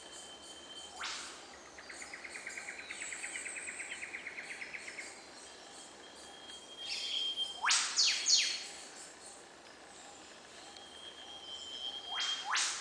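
Birds calling against a faint outdoor hiss: a rapid trill lasting about three seconds, thin steady whistles, and quick upward-sweeping calls, the loudest a run of three about eight seconds in, with two more near the end.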